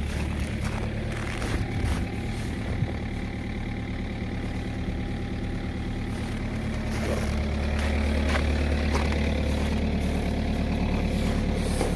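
BMW diesel engine idling steadily just after a hard cold start, growing a little louder about two-thirds of the way through.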